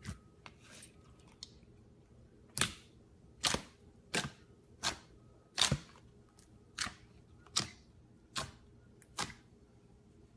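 A series of sharp pops or clicks: a few faint ones, then nine stronger ones, evenly spaced at a little under one a second.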